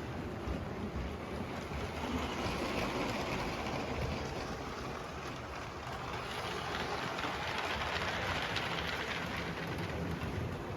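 Motorised LEGO passenger train running on plastic track: a steady motor whir and rattling wheel clatter that grows louder and softer as the train goes round the loop.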